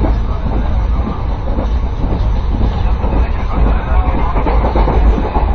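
Passenger train running, heard from inside the carriage: a loud, steady low rumble with a continuous clatter of the wheels and car.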